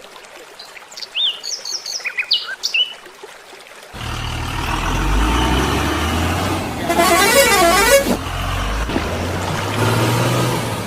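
A few high chirps, then about four seconds in a steady low vehicle engine rumble starts. From about seven to eight seconds a loud horn warbles quickly up and down over it.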